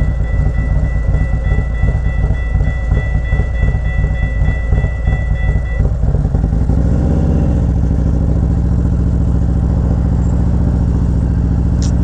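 Motorcycle engine running while riding, with wind buffeting over it. A thin steady high tone stops about six seconds in, after which the engine settles into an even, steady note.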